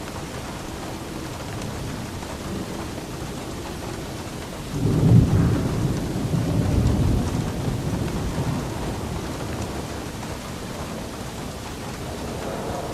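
Steady rain with a roll of thunder: a low rumble breaks in suddenly about five seconds in and rolls on, fading over several seconds.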